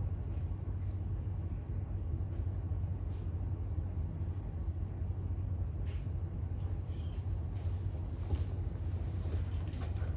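Steady low background hum with a few faint clicks in the second half.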